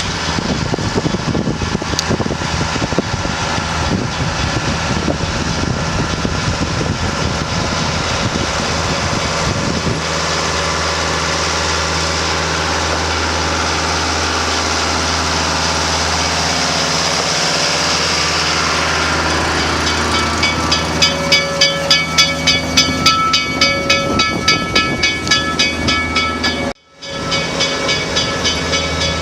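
Train running on the rails, a steady rumble and hum that takes on a regular beat of about two pulses a second some twenty seconds in. The sound cuts out for a moment near the end.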